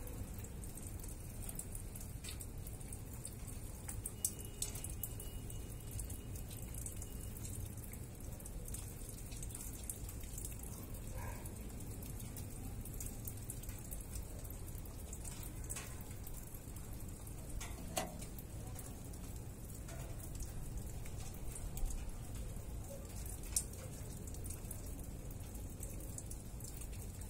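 Steady rain falling during a thunderstorm, with a sharp drop or drip striking close by now and then.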